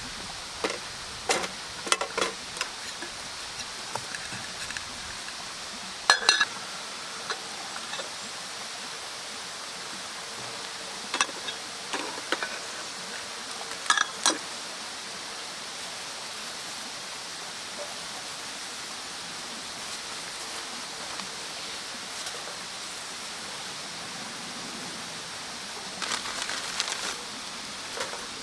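Wood fire burning with a steady hiss and scattered sharp pops and crackles, a handful of louder snaps among them.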